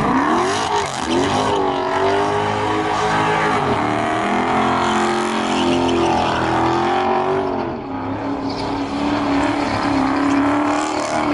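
Car engine revving hard. Its pitch climbs steeply at the start, then stays high and wavers up and down as the revs are held, easing off a little about eight seconds in.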